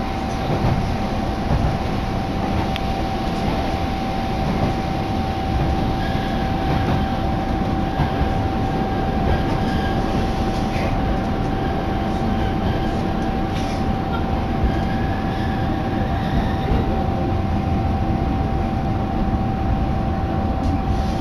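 Diesel railcar running on the Hitachinaka Seaside Railway Minato Line, heard from inside the car: a steady, even rumble of engine and wheels on the track, with a constant high tone and a few faint, brief squeals.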